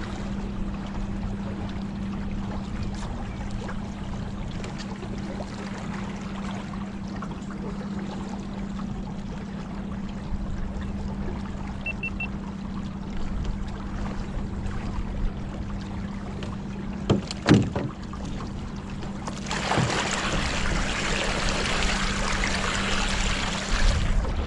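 Boat moving on the water, with a steady motor hum under water noise. There is a sharp knock about two-thirds of the way through, then a louder rush of water or wind for the last few seconds.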